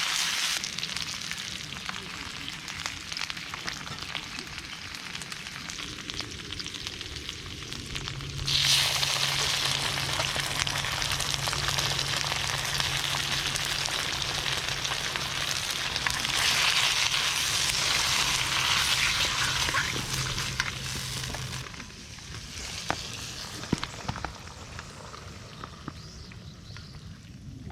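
Food sizzling as it fries in a wok. The sizzle turns sharply louder about eight seconds in, stays strong, then eases off about twenty-two seconds in.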